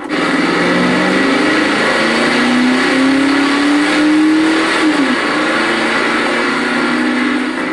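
Car engine revving: its note climbs steadily for a few seconds, drops sharply about five seconds in, then holds steady.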